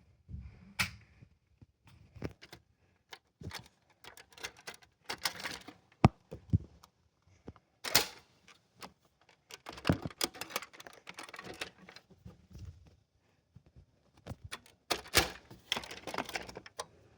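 Irregular clicks, taps and knocks of small hard objects being handled, with short rustling sounds between them; the sharpest knocks come about 6 and 8 seconds in.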